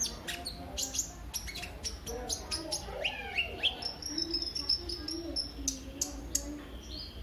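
Sunbird of the kind sold as 'kolibri ninja' singing fast and unbroken: sharp high chirps and quick up-and-down sweeping notes over a lower running warble.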